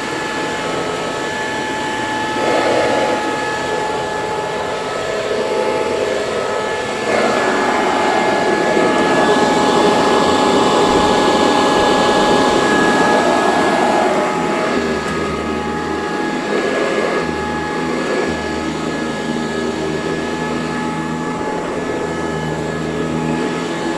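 Eureka C2094 commercial vacuum cleaner running steadily, its motor giving a constant whine over a rushing air noise. It grows louder and fuller for several seconds in the middle, then settles back.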